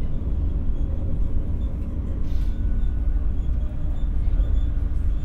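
Cabin running noise of an X60 (Alstom Coradia Nordic) electric commuter train under way: a steady low rumble from the bogies and track, with a faint whine that comes and goes briefly mid-way.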